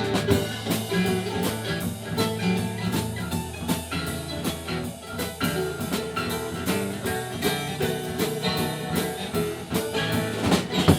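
Live band playing an instrumental break: guitar over a drum kit keeping a steady beat.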